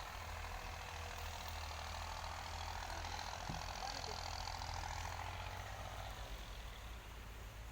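A steady low engine hum, like a motor idling, under a faint even background hiss.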